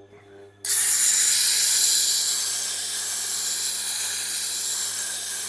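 A steady, loud hiss of spray or a jet of air, starting suddenly just over half a second in, over a low motor hum.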